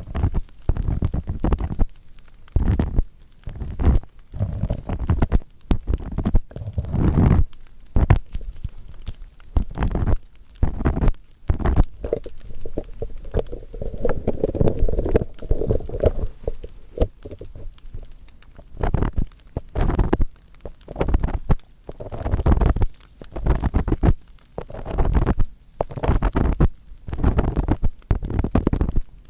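Earpick scraping firmly inside the ear of a 3Dio binaural microphone, in repeated rough strokes with a deep rumble, about one or two a second, with a longer steady rub near the middle.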